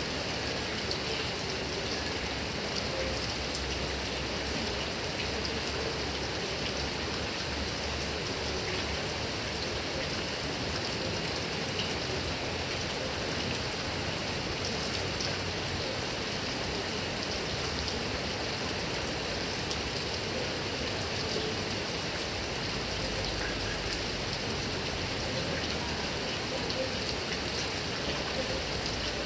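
Heavy rain falling steadily on grass and palm trees, an even hiss of rain with scattered individual drop ticks.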